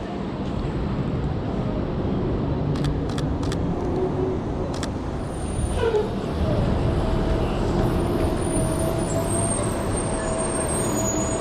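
City street traffic: a steady low rumble of vehicles, with a few sharp clicks around three to five seconds in and a steady whine joining about six seconds in.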